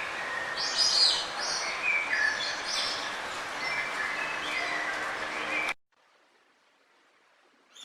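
Songbirds chirping and singing in short repeated notes over a steady hiss of background noise, cutting off abruptly about three-quarters of the way through to near quiet.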